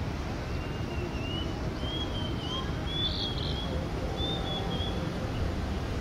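A small bird singing a string of short, high chirps and warbles, over a steady low background noise.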